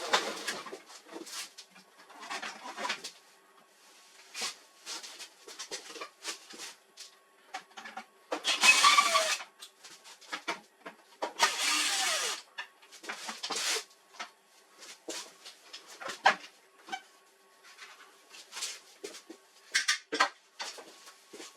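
Hand work on a laser printer's casing and parts: scattered clicks and knocks of plastic and metal, with two longer scraping or sliding noises, the loudest sounds, about eight and eleven seconds in.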